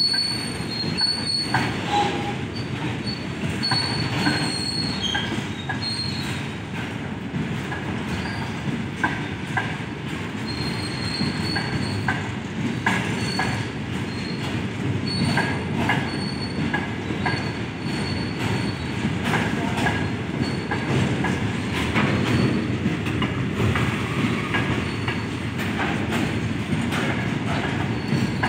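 Covered wagons of a long goods train rolling past, wheels knocking over rail joints under a steady rumble. A high-pitched wheel squeal comes and goes throughout.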